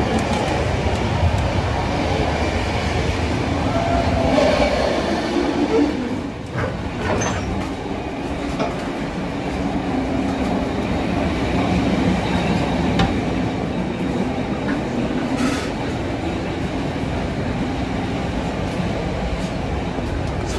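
A moving train: a steady rumble of wheels on the track, with faint wavering squeals and a few clicks.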